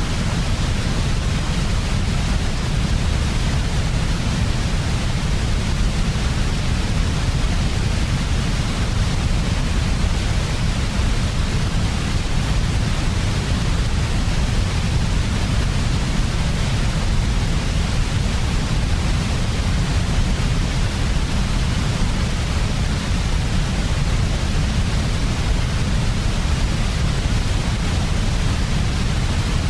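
Steady, unchanging synthetic noise, heaviest in the deep bass with an even hiss above it: a constant white-noise sleep track for babies.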